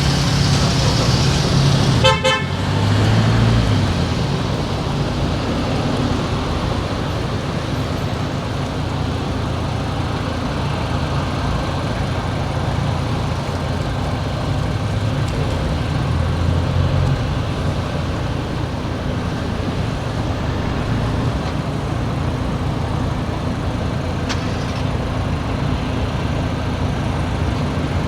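Steady car engine and road noise while driving through town streets, with one short car-horn toot about two seconds in.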